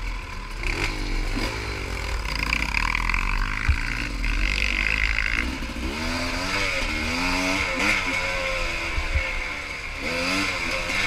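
Big-bore four-stroke pit bike (143 kit, 26 mm carb) being ridden, its engine revving up and dropping back again and again as the throttle is worked.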